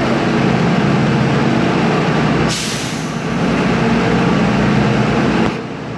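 School bus engine running steadily nearby, with a short hiss of the air brakes about two and a half seconds in.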